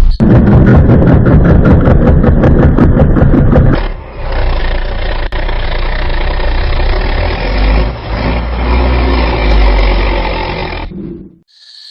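Engine-like machine running loudly, with fast, even knocking for about four seconds, then a steady harsh running noise that cuts off suddenly near the end.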